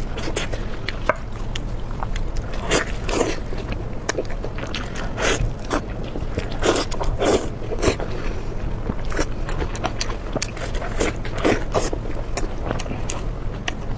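Close-miked eating sounds: irregular bites and chews of food, one every second or so, over a steady low hum.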